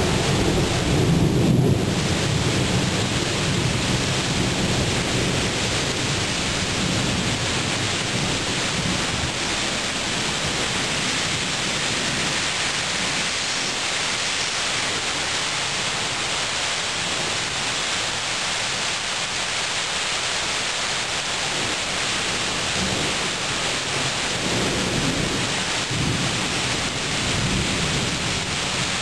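Thunderstorm: steady rain pouring down, with thunder rumbling during the first couple of seconds and again rolling in over the last several seconds.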